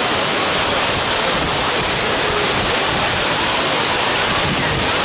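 Waterfall: a steady, loud rush of falling water, with some wind on the microphone.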